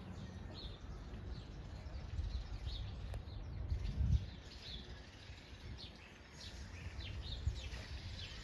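Small birds chirping and twittering, many short high calls over a low rumble.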